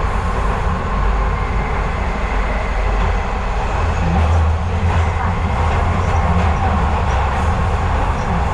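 Docklands Light Railway train running, heard from inside the carriage: a steady, loud rumble of wheels on the rails with a few faint clicks.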